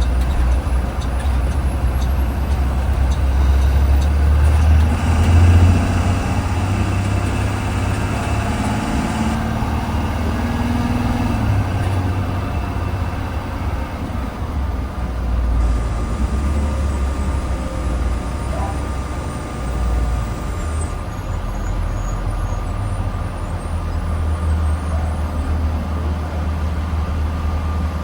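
2020 Blue Bird Vision school bus under way, heard from inside: a steady low rumble of engine and road noise.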